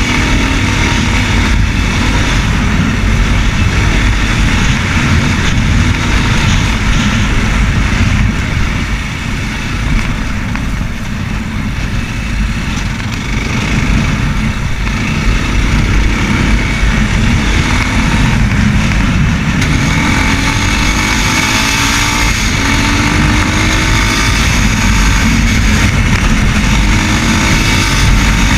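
Racer Panther 300 enduro motorcycle's engine running under way, easing off briefly about a third of the way in, then climbing in pitch as it speeds up in the last third.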